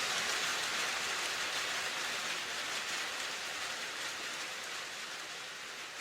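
Steady rain falling, an even hiss of many drops that slowly fades out.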